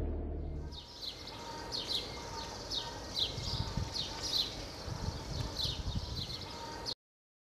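Birds chirping in a rural outdoor ambience, a string of short, quick chirps repeating over a low background rumble. A low hum fades out about a second in, and everything cuts off abruptly near the end.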